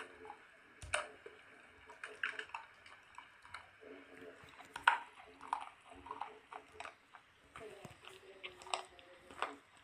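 Soap being bitten and chewed close to the microphone: irregular crisp crunches and squishy clicks, the sharpest about a second in and near the five-second mark.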